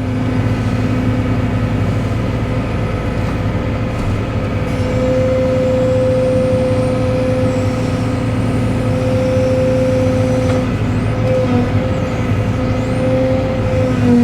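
Cat 313 excavator's diesel engine running steadily under work. A steady higher whine joins about five seconds in and wavers near the end.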